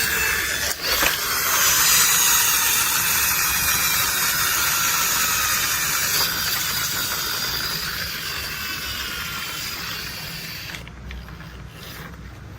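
A toy construction vehicle's plastic gears and wheels whirring as it rolls, its pitch slowly falling as it runs down. It is loudest about two seconds in and fades away near the end.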